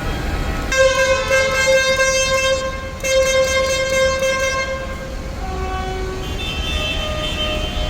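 A vehicle horn sounds two long, steady blasts, one straight after the other, over the low running of heavy engines. Fainter, higher horn tones follow in the second half.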